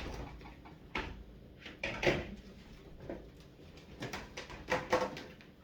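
Several separate clunks and knocks, about one a second, as household items are moved and set down around a dishwasher. A couple of them ring briefly.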